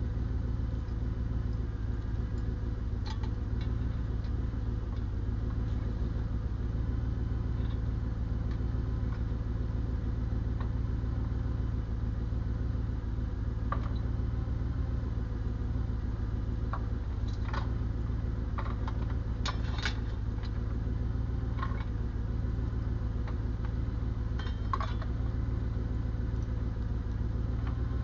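Diesel engine idling steadily, with a few short metallic clicks and clinks over it now and then.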